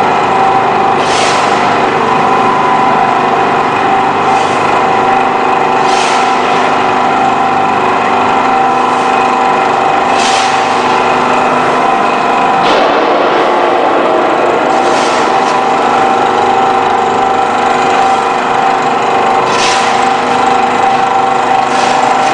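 Electro-hydraulic drive of a scrap metal baling press running with a steady whine, with short bursts of hiss every few seconds.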